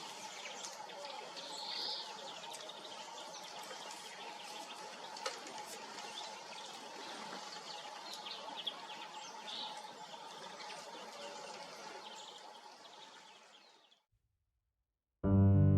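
European greenfinches chirping and calling over a steady outdoor background, with a few sharp clicks; the sound fades out near the end. Piano music starts just before the end.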